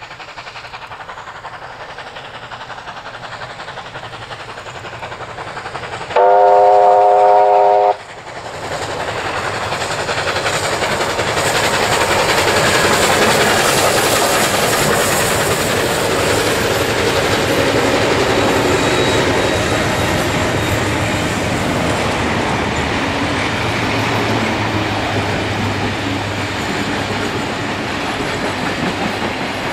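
A passenger train hauled by NSW steam locomotive 3801 and two diesel locomotives approaches and passes. About six seconds in there is one loud blast on a train whistle, a chord lasting about two seconds. After it the locomotives and carriages rumble by, loud and steady, with the wheels clattering on the rails.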